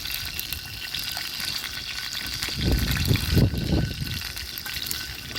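Chicken sizzling and crackling over a campfire, a steady hiss with fine pops; a few low rumbles about three seconds in are the loudest part.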